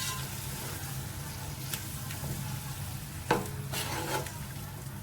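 Pulao masala frying and sizzling in a cooking pot while being stirred, with a few sharp scrapes of the spoon against the pot.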